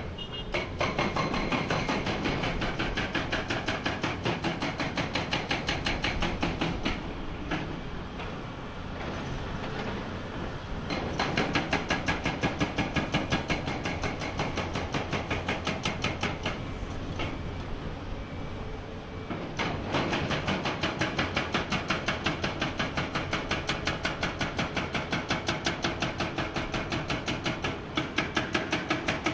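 Hydraulic rock breaker on a Komatsu PC490 excavator hammering rock with rapid, even blows, in long runs that ease off twice before picking up again.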